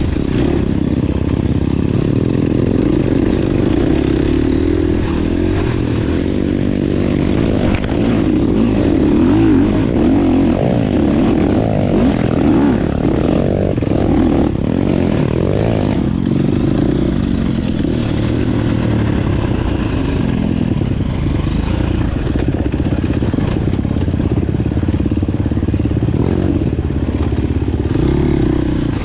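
Dirt bike engine running while riding, its revs rising and falling with the throttle, with clattering from the bike over rough ground.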